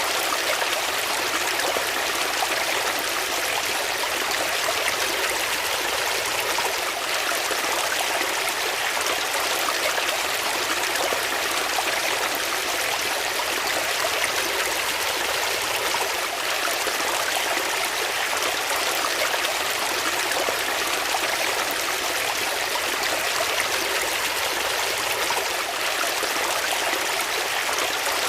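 Water flowing steadily in a stream, an even rushing with small trickles.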